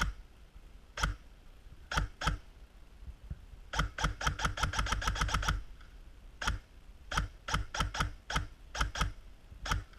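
Airsoft electric rifle firing: a few single shots, then a rapid burst of about ten shots about four seconds in with the gearbox whining under it, then more single shots.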